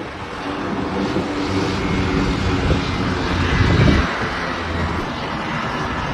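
Helicopter running, a steady noisy mechanical drone with a low hum that builds in the first seconds and peaks about four seconds in.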